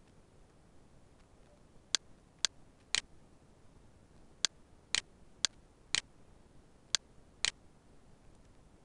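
Computer mouse button clicking, about nine sharp clicks at uneven intervals over five or six seconds, a few of them slightly doubled, over faint background hiss.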